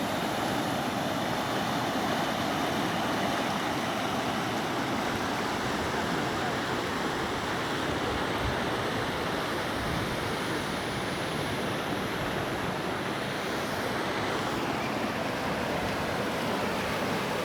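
Waterfall: a steady rush of falling water, even in level throughout.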